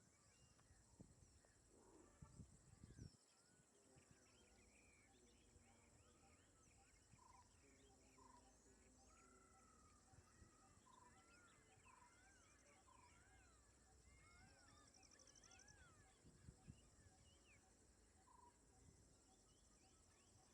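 Faint natural ambience of many small birds chirping and calling over a steady high insect drone, with a few soft low thumps in the first few seconds.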